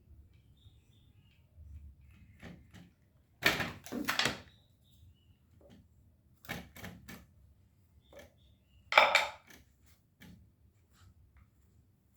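Irregular knocks, taps and short scrapes from handling craft materials on a work surface, loudest about three and a half to four seconds in and again about nine seconds in.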